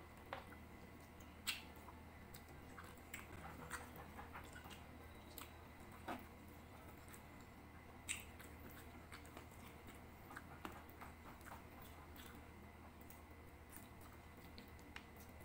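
Faint eating sounds of chicken adobo and rice: chewing with scattered short wet clicks and smacks from the mouth, over a steady low hum.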